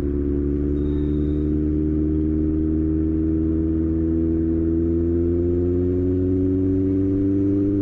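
Kawasaki ZX-6R's inline-four engine running under load while riding, its pitch rising slowly and steadily as the bike gathers speed in one gear.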